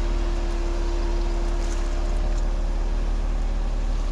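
Jeep engine running steadily at low speed, a low drone with a constant hum over it.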